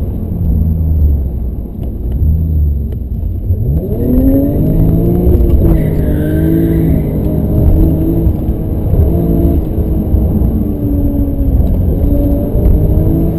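BMW M5 engine heard from inside the cabin, accelerating hard: its pitch climbs through each gear and drops at the shifts, several times over.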